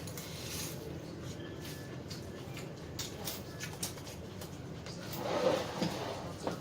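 Eating at the table: scattered light clicks of cutlery and chewing, with a brief low murmur near the end.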